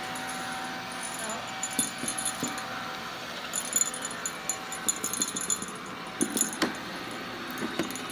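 Robot vacuum cleaner running with a steady hum, with irregular light rattles and clinks scattered through it, the loudest a cluster a little after six seconds in.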